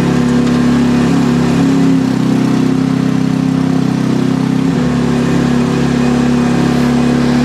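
Mini excavator's small carbureted gasoline engine running steadily. Its pitch steps up about a second and a half in, holds, and drops back to the lower speed about two-thirds of the way through.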